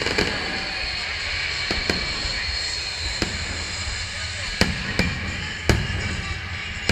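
Fireworks going off in separate sharp bangs, about six or seven of them, with the loudest cluster in the second half, over steady background music.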